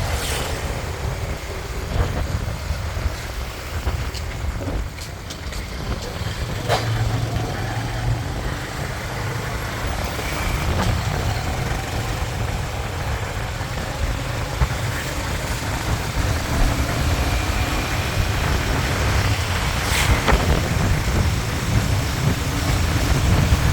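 Riding on a motorbike through traffic: wind buffeting the microphone over the hum of the bike and passing vehicles, with a couple of brief sharp clicks.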